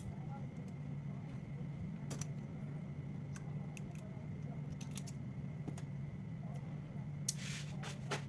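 Scattered small clicks and taps of hand tools working on a smartphone being taken apart, with a short scrape about seven seconds in, over a steady low hum.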